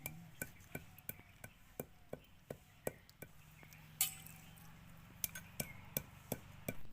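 Repeated light clinks and taps of a utensil against cookware, about two to three a second, with one louder clatter about four seconds in.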